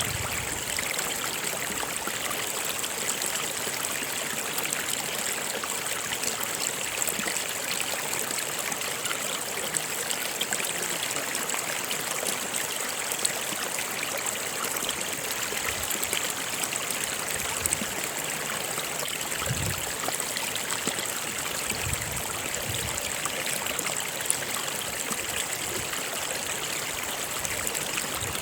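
A stream of water running steadily, a continuous even rush with a high hiss and no breaks.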